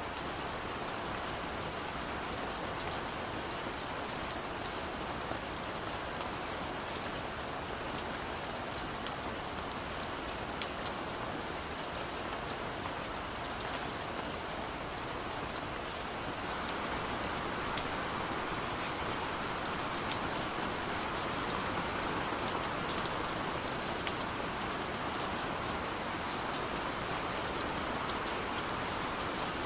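Steady gentle rain falling, a constant hiss with many small drops pattering and ticking on a surface. The rain grows slightly heavier about halfway through.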